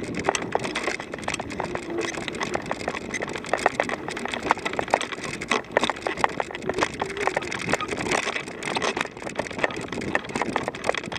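Footsteps crunching on gritty rock, a dense irregular crackle of small clicks.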